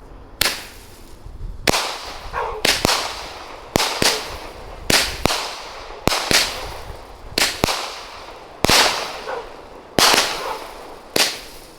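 Dominator "Orange Sky" consumer firework cake firing shot after shot. There are about a dozen sharp reports, roughly one a second and some in quick pairs, each followed by a short ringing tail.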